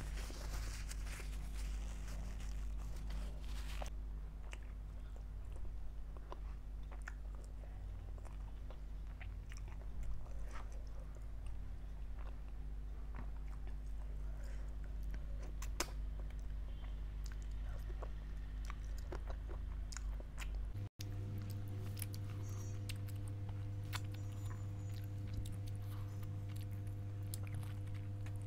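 Close-miked chewing and biting of mutton curry and naan, with scattered small mouth clicks, over a steady low electrical hum. The audio drops out for an instant about two-thirds of the way through, and the hum changes after it.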